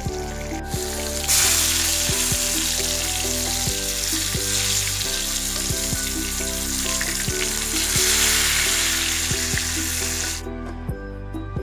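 Burger patties sizzling as they shallow-fry in hot oil in a pan, a loud, even hiss that starts about a second in and cuts off suddenly near the end. Background music plays under it.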